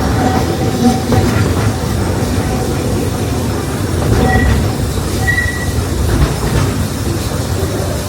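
Walt Disney World Railroad steam train heard from aboard a passenger car while it runs along the track: a steady rumble of wheels on rail with clacking and a few brief, thin wheel squeals.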